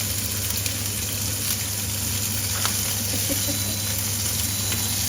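Chicken pieces frying in a hot pan: a steady sizzle, with a couple of light clicks.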